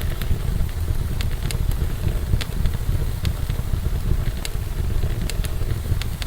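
Wood fire burning in a fireplace: a steady low rumble of flames with scattered sharp crackles and pops, about two a second.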